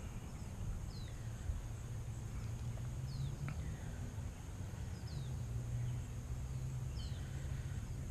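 A bird calling: short, high chirps that slide downward in pitch, repeated about every two seconds, over a low rumble of wind or handling noise. A single sharp click comes about halfway through.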